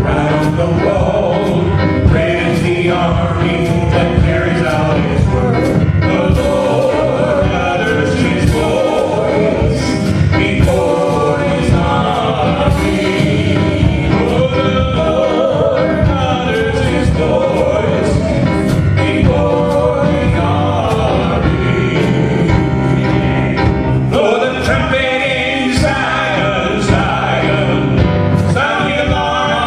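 Upbeat gospel song: singing, with choir-like voices, over a band with a steady drum beat.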